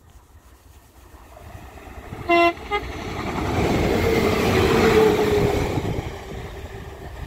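Transport for Wales Class 197 diesel multiple unit sounding a short two-note horn, a low note and then a brief higher one, about two seconds in, then passing close by: the engine and wheel noise with a steady whine builds to a peak and fades as it goes away. Wind buffets the microphone.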